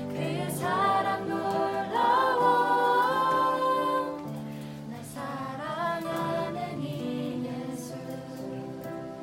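Several voices singing a Korean worship song together, holding a long note about two seconds in, then singing a softer phrase.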